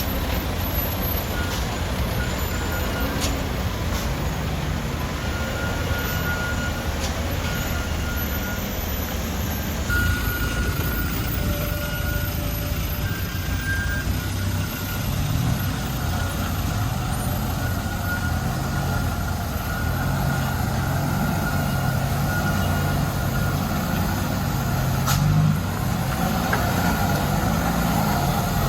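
A truck's diesel engine running under load, steady at first. About halfway through its pitch begins to rise and fall as the revs change.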